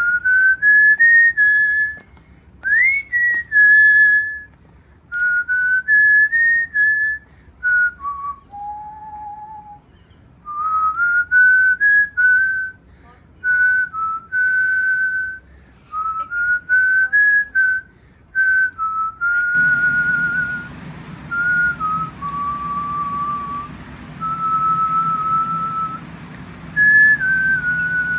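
A person whistling a tune: clear single notes held for about half a second to a second, stepping up and down in pitch, with short breaks between phrases. A steady low hum comes in about two-thirds of the way through.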